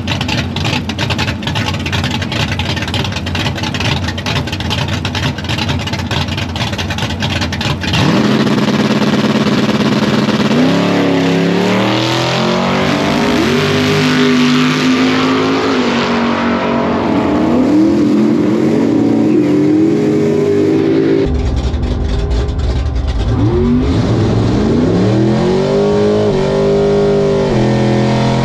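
Fox-body Ford Mustang drag car's engine, first a choppy, pulsing rumble. About eight seconds in it gets louder and revs up and down in pitch again and again. Near the end it is heard from inside the car's bare, caged cabin.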